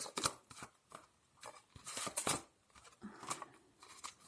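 Tarot cards being handled: a series of short papery slides and flicks as the cards are shuffled and drawn, the longest about two seconds in.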